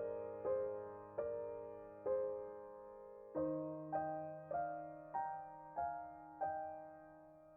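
Background music: a slow solo piano piece, single notes struck about every half second to a second and each ringing out and fading over a held bass note, the bass shifting lower about halfway through.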